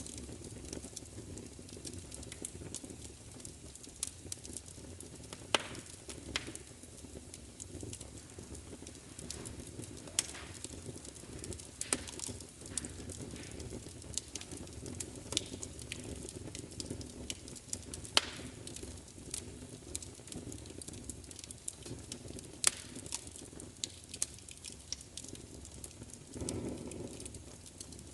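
Wood fire crackling steadily, with frequent small snaps and a handful of louder sharp pops scattered through, over a low steady rumble of the burning.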